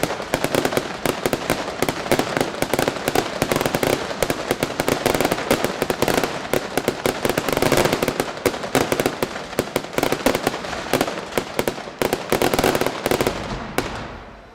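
Fireworks display going off in a dense barrage of rapid bangs and crackling, many reports a second, which thins out and dies away near the end.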